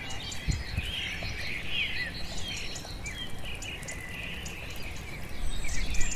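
Birds chirping and singing, short rising and falling calls repeating throughout, over a low rumble of outdoor background noise.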